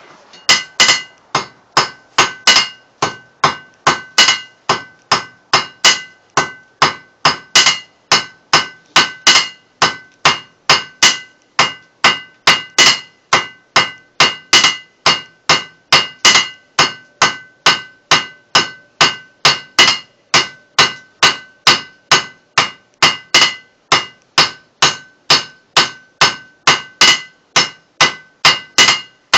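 Blacksmith's hammer striking hot round bar on an anvil in a steady rhythm of about two blows a second, each blow ringing, while one end of the bar is forged square.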